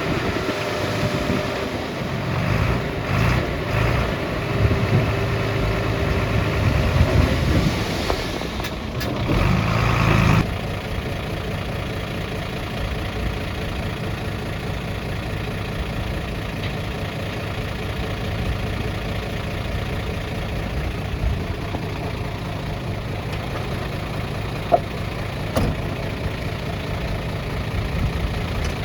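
Heavy diesel engines of earthmoving machinery: louder and uneven for about the first ten seconds, then settling to a steady, lower running drone. One sharp click about two-thirds of the way in.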